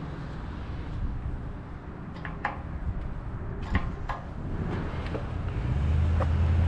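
Outdoor road and wind rumble with a few light clicks, and a car's engine hum building up close by near the end.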